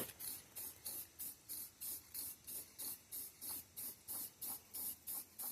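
Aerosol spray can of Rust-Oleum Painter's Touch paint and primer hissing in short, quick bursts, about three a second.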